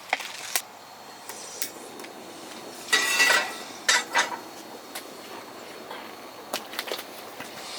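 Metal cookware and utensils clinking and clattering: scattered light clinks, with a louder clatter and a brief metallic ring about three seconds in.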